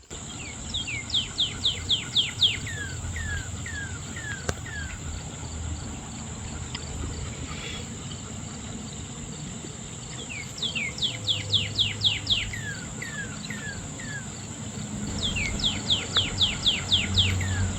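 A songbird singing three phrases of rapid, repeated whistled notes that slur downward, over the steady high drone of crickets and other insects.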